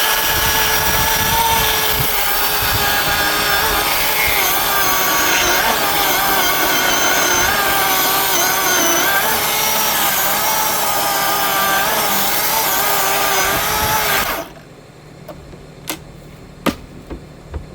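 Milwaukee battery-powered chainsaw running and cutting through a pine limb, its electric whine wavering in pitch as the chain loads up in the wood. It stops about fourteen seconds in, followed by a few sharp knocks.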